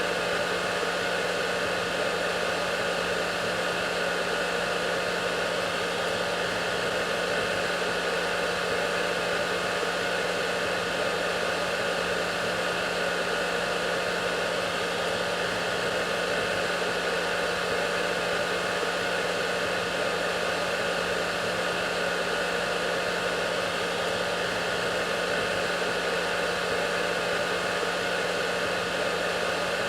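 Hair dryer running steadily: an even rush of blown air with a constant motor hum and a few faint steady whining tones.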